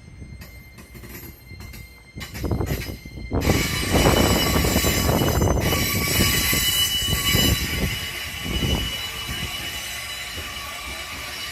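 A train rolling into a rail depot with its wheels squealing on the rails. It is intermittent and fairly quiet at first, grows suddenly much louder about three seconds in, and eases off somewhat over the last few seconds.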